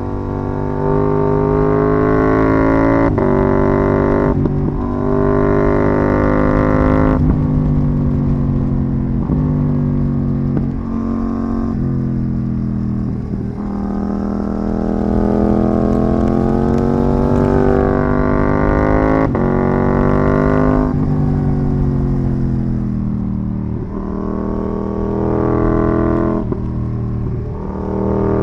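KTM 790 Duke's parallel-twin engine running through an IXRace MK2 aftermarket exhaust while riding. It pulls up in pitch and drops sharply at each gear change, several times, with a longer steady climb in the middle.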